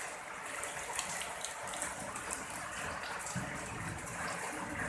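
Steady heavy rain pouring down, with water splashing and pattering in many small ticks.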